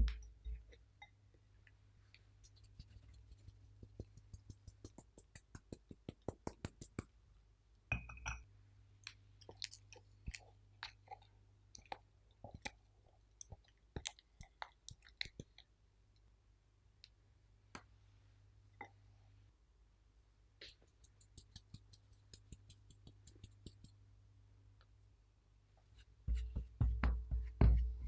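Close-up handling sounds of sticky food: a run of small wet clicks and taps over a faint steady low hum, with louder low thumps near the end.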